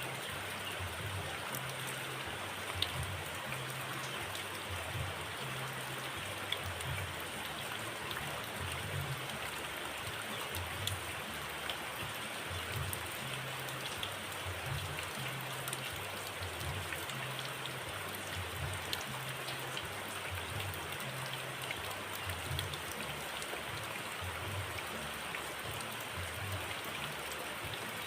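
Steady hiss of rain falling, with a few faint ticks and a low, uneven rumble underneath.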